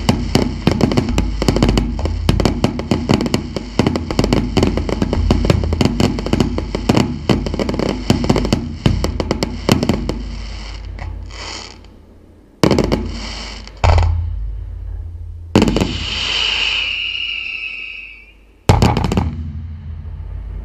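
Aerial fireworks bursting: a dense, rapid barrage of bangs and crackling reports for about ten seconds, then it thins out to four single heavy bangs, each with a long rolling tail. After the third of these a high tone is held for about two seconds.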